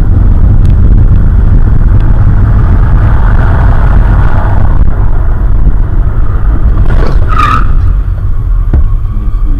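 Loud, steady rumble of a car on the move, heavy in the low end. About seven seconds in comes a short high-pitched squeal.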